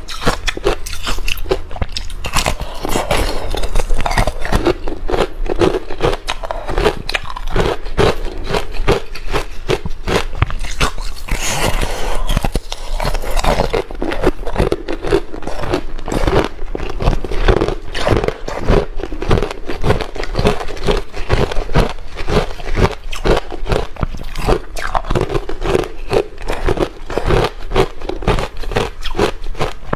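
Close-miked biting and chewing of hard ice: dense, continuous crunching and crackling, with a steady low hum underneath.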